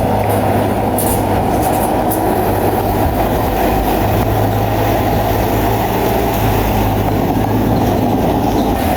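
Bulldozer's diesel engine running steadily under load, with the clatter of its steel tracks and a few sharp clanks in the first couple of seconds.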